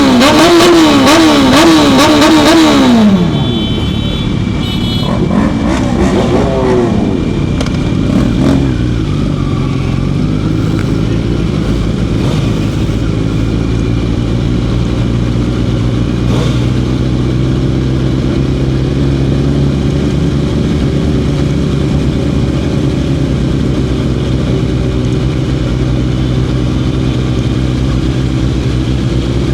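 Motorcycle engine revved up and down in quick repeated blips for about three seconds, then dropping back and running steadily at low revs, with a couple of small revs a few seconds later.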